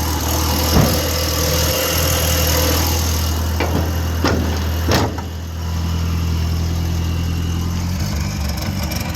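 A vehicle engine idles steadily and turns uneven near the end, with a few sharp knocks over it.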